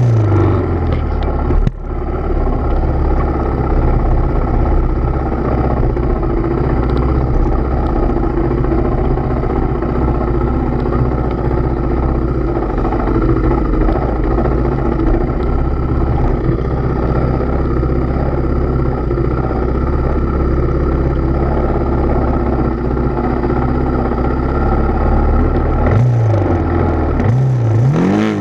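Trail motorcycle engine running steadily under load, its revs dropping just after the start, with a brief dip about two seconds in and a quick rise and fall in revs near the end.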